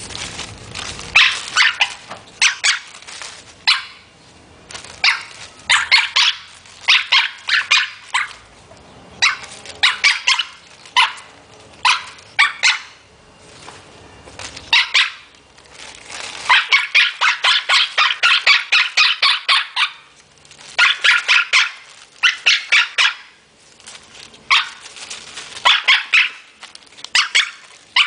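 A parrot imitating a dog's bark: loud, short barks in quick clusters of several, with a long rapid run of barks about two-thirds of the way through.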